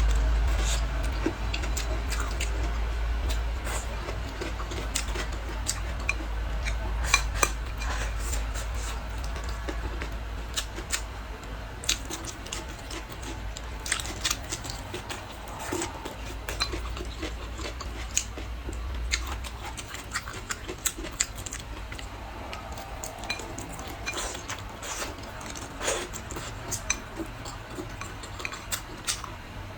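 Utensils clicking and clinking against dishes during a meal, in many scattered sharp clicks, over a low steady hum that fades about two-thirds of the way through.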